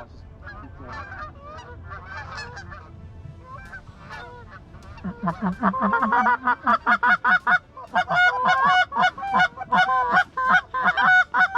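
Canada goose honking and clucking, faint at first, then from about five seconds in loud and rapid, several calls a second.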